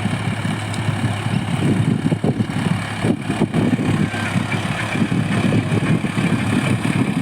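Tractor engine running steadily with a rough, pulsing low chug.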